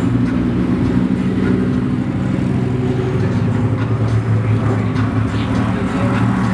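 A car engine running steadily at low revs, its pitch holding level without revving.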